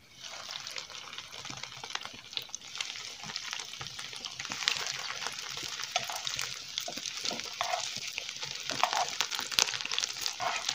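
Bread strips frying in hot cooking oil in a shallow pan: a sizzle with many small crackling pops, starting as the first piece goes in and growing fuller after about four seconds as more bread is added.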